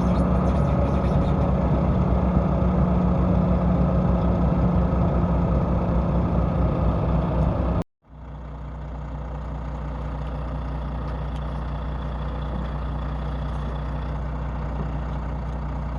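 Heavy diesel engine of a tracked excavator running steadily. A little before halfway it cuts off abruptly for an instant, and a quieter, lower steady diesel idle takes over.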